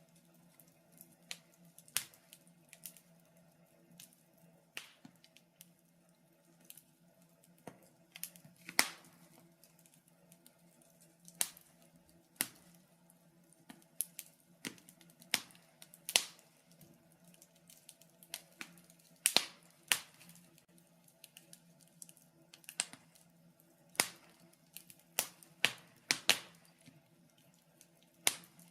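Wood fire crackling in a fireplace: irregular sharp pops and snaps, about one or two a second and some much louder than others, over a faint steady low hum.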